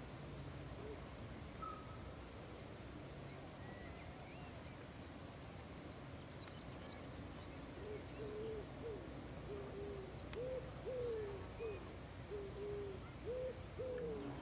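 Birds calling: a bird's low call notes, repeated about a dozen times in the second half, over faint high chirps of small birds.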